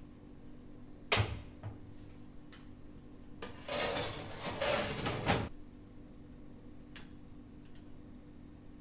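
Kitchen handling sounds: a sharp knock about a second in, then a couple of seconds of clattering and rubbing of dishes or cookware, then two light clicks near the end, over a steady low hum.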